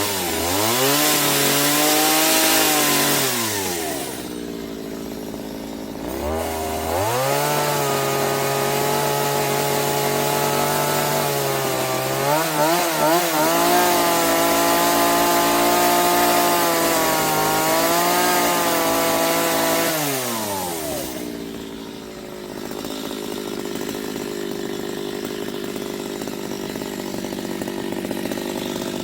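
Two-stroke chainsaw revving up and holding at high speed, dropping back and revving up again, then easing off. Its speed wavers briefly in the middle of the second run.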